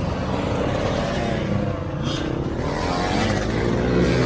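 Off-road 4x4's engine running and revving, its pitch rising and falling several times.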